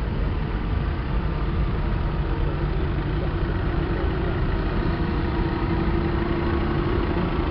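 Vintage tractor diesel engines running steadily at low revs, with one engine's note growing louder about halfway through as it draws near.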